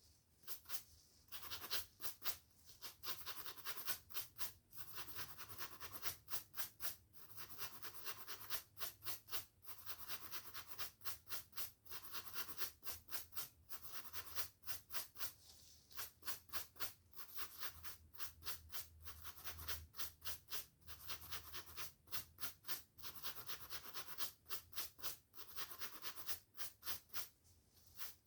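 Hair being brushed and a scalp scratched: quick, scratchy strokes repeated several times a second, in runs broken by short pauses.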